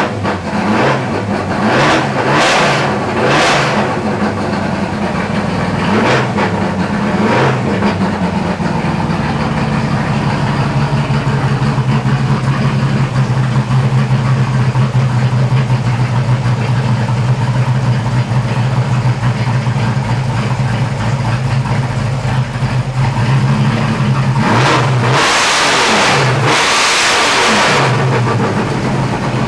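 Chevrolet S-10's 4.3L V6 with a flat-tappet hydraulic cam, running at a steady idle. A few short throttle blips come in the first several seconds, and two longer revs come near the end.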